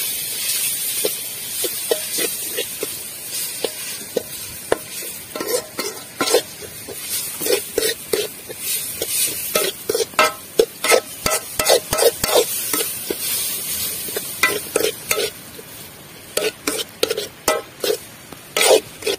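Eel pieces frying in oil with onion and tomato in a metal pot, sizzling, while a metal spoon stirs and scrapes them, clinking against the pot many times. The sizzle is strongest at first and dies down; the clinks come thickest in the middle and again near the end.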